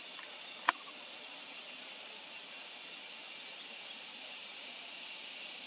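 Steady high-pitched hiss with no clear pattern, broken once by a single sharp click a little under a second in.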